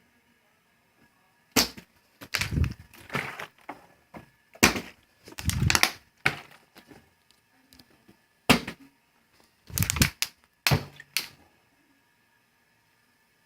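Plastic water bottles knocked off a dresser, landing with a series of sharp knocks and short clatters, about ten in all, some in quick pairs.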